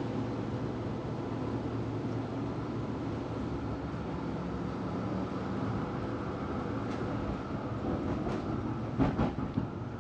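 Melbourne tram running along its track, a steady rumble and rolling noise from wheels and motors. A few sharp knocks come near the end, the loudest about nine seconds in.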